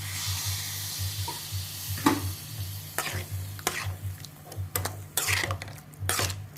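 Chicken legs and green beans sizzling in a pan as they are stir-fried, with a spatula scraping and knocking against the pan many times.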